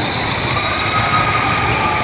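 Steady din of a gym during a basketball game, with a thin high squeal held for about a second and a half over it.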